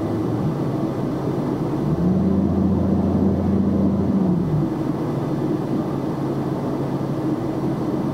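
Steady road and engine noise inside a moving box truck's cab. About two seconds in, a louder steady low drone comes in and holds for about two and a half seconds, then drops away.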